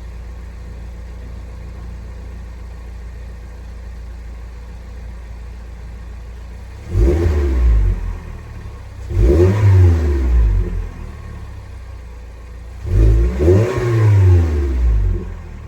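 2019 Toyota Corolla hatchback's four-cylinder engine idling through a new aftermarket exhaust with a deep tone, then revved three times, each rev rising and falling back to idle.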